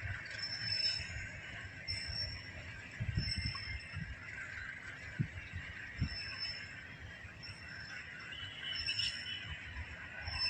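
Outdoor ambience: a steady high hiss, short high bird chirps every second or two, and a few low wind bumps on the microphone.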